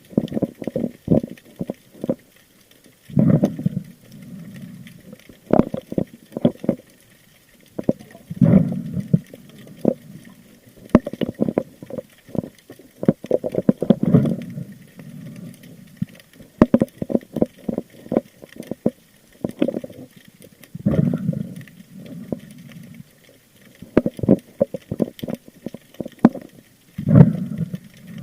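Muffled underwater sound from a spearfisher's camera: low surges of moving water every few seconds, with many sharp clicks and knocks against the housing.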